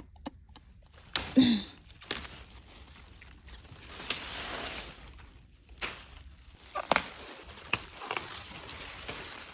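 Raw vegetables being bitten and chewed: irregular sharp crunches with stretches of wet, noisy munching. A brief pitched vocal sound comes about a second in.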